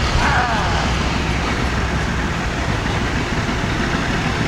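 A heavy engine running steadily close by: a dense, even low rumble with a rapid texture. A faint voice is heard briefly about a second in.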